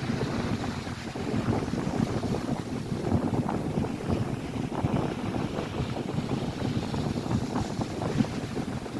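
Strong gusting wind buffeting the microphone, with waves breaking on the lake shore underneath.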